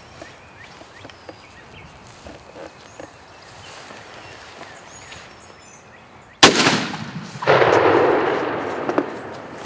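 A single loud gunshot about six seconds in, a hunter's shot at a wild turkey gobbler that has come in to calling. About a second after it comes a longer loud rush of noise that fades over a couple of seconds. Before the shot there is only faint outdoor background.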